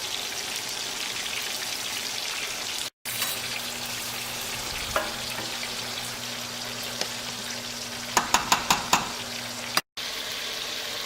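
Chicken strips deep-frying in hot oil, a steady sizzle that cuts out briefly twice. A low hum runs through the middle stretch, and a quick run of about five sharp clinks or knocks comes near the end.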